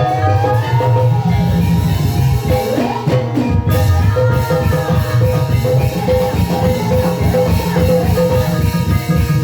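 Gamelan music of the kind played for ebeg: drums keep a steady, dense beat under struck tuned percussion, with a gliding melodic line near the middle.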